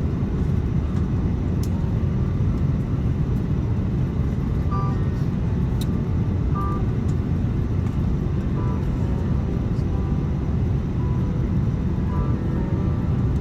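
Airbus A330-200 cabin noise: a steady low rumble of the jet engines and airflow, heard from a window seat, with faint short tones now and then.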